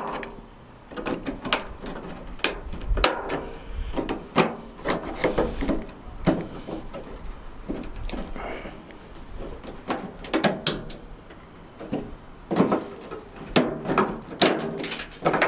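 Irregular clanks, knocks and scraping of window hardware being worked loose inside a steel truck door, the parts snagging as they are pulled through.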